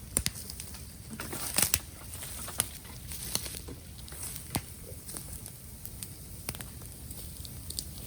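Bamboo burning in a bonfire, crackling with irregular sharp pops and snaps, a quick cluster of them about a second and a half in.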